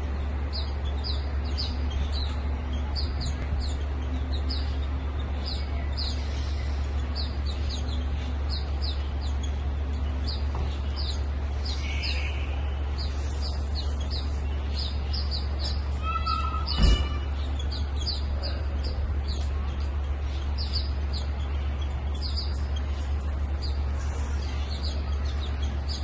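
A small bird chirping over and over, short high falling chirps about two a second, over a steady low rumble. About sixteen seconds in there is a brief harsher call, then a sharp knock, the loudest sound of the stretch.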